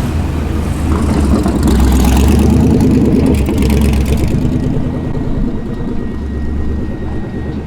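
A car's engine rumbling at low speed as the car rolls in, growing louder to a peak about two to three seconds in, then easing off.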